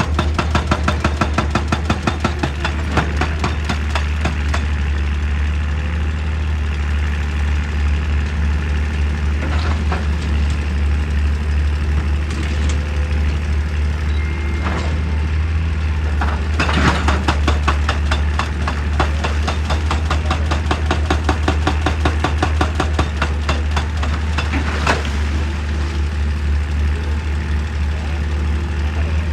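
Excavator's diesel engine running under a hydraulic rock breaker hammering in rapid, evenly repeated blows, heavier at a few points.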